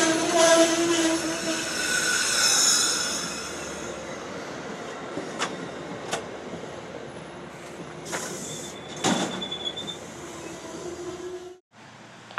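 CSX train passing on the rails: the horn trails off in the first second or two, steel wheels squeal high over the rolling noise, and the passing noise then dies away, with a few sharp clanks and knocks from the cars.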